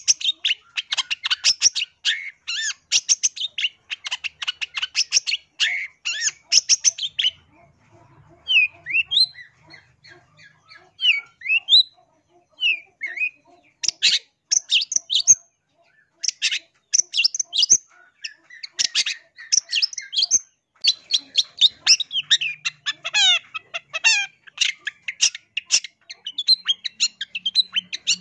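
Long-tailed shrike (cendet) singing: runs of rapid, harsh chattering notes, broken about a third of the way in by a sparser stretch of scattered rising whistled notes, before the fast chatter resumes.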